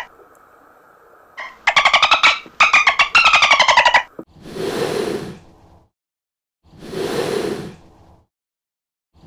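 Animal calls: a burst of rapid, rattling calls falling in pitch, followed by three separate breathy, rasping calls about a second and a half long each.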